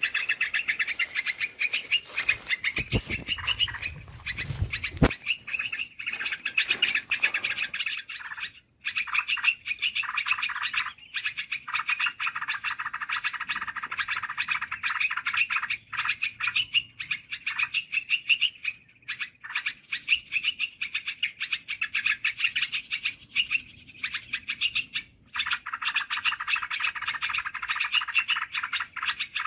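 Dense, rapid chattering of small birds that runs on with brief breaks: a bird-trapping lure call for bulbuls such as the olive-winged bulbul (merbah belukar). A few sharp clicks and low thumps sound in the first few seconds.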